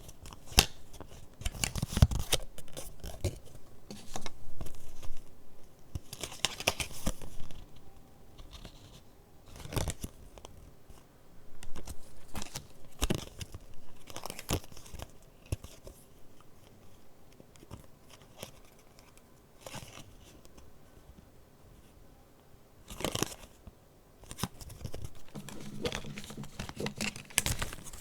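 Paper of a handmade junk journal being handled: pages turned, and papers rustling and crinkling in irregular bursts with quieter pauses between.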